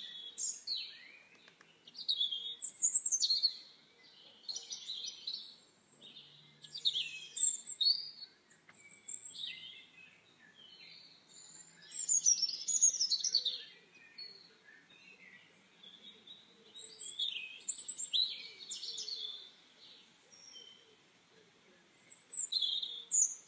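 Small birds chirping and singing: bouts of quick, high chirps and sweeping whistles, one every few seconds, with short pauses between them.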